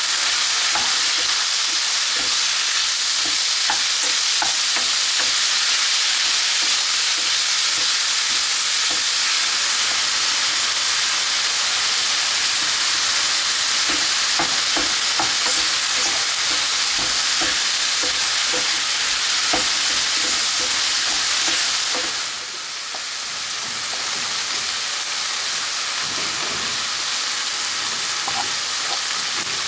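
Food frying and sizzling in a hot pan, with light clicks from a utensil stirring it; the sizzle drops a little about 22 seconds in.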